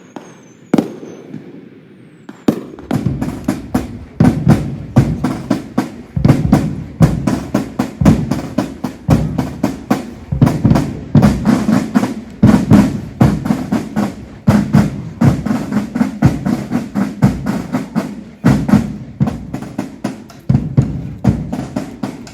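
Fireworks: a couple of whistling rockets and single bangs, then from about two and a half seconds a dense, continuous barrage of bangs and crackles, two or three loud reports a second.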